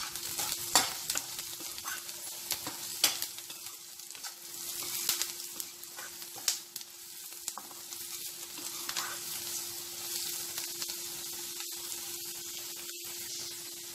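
Chopped onions, curry leaves and garlic sizzling in hot oil in a frying pan while a metal spatula stirs them, with sharp scrapes and taps of the spatula against the pan now and then.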